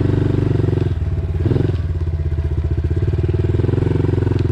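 Dirt bike engine running steadily as it is ridden. The engine note breaks briefly and shifts about a second in, then settles back to a steady run.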